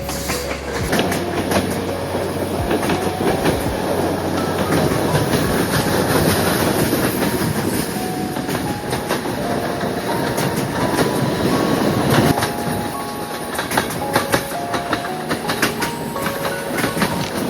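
Passenger train running along the line, with a continuous rumble of rail noise and the rapid clatter of wheels over rail joints.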